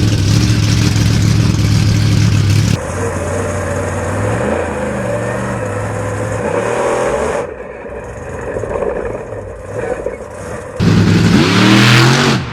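Monster truck engines revving and running in a string of abruptly cut clips, their pitch sliding up and down; the loudest burst of revving comes near the end.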